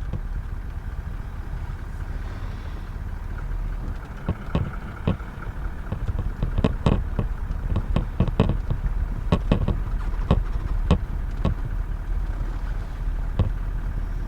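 A vehicle engine idling with a steady low hum. Between about four and eleven seconds in, a scattering of sharp clicks and knocks sounds over it.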